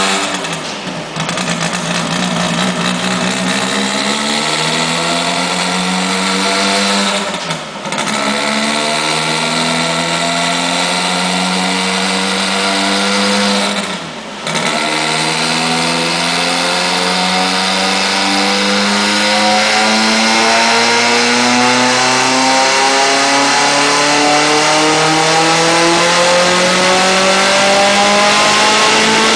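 Drag car engine pulling at full throttle on a chassis dyno, rising in pitch through the gears. Brief drops about a second, eight seconds and fourteen seconds in are the gear changes, and the last gear climbs slowly and steadily toward high revs.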